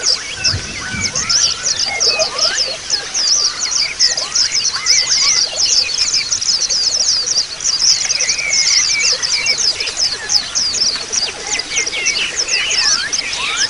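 A flock of white-eyes (pleci) chirping together in a dense, unbroken chorus of rapid, high twittering, with scattered lower sliding whistles mixed in.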